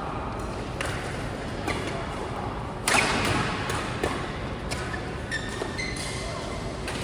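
Several sharp hits and thuds echoing in a large hall, the loudest about three seconds in, followed by short high squeaks.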